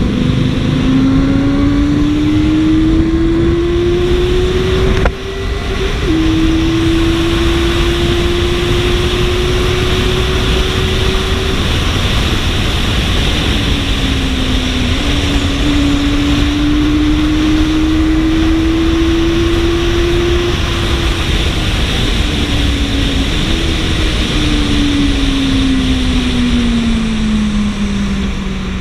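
Benelli TNT 600i inline-four motorcycle engine on its stock exhaust, running inside a road tunnel. Its pitch climbs, drops suddenly about five seconds in as it shifts up, and climbs again with a couple more drops. Near the end it falls steadily as the bike slows, with a steady rush of wind and road noise under it.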